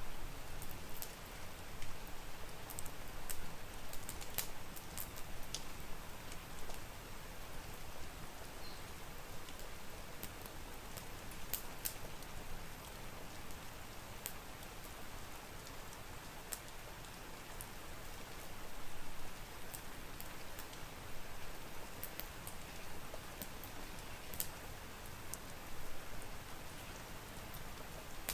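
Steady rain, with sharp pops and crackles of a wood fire scattered irregularly through it.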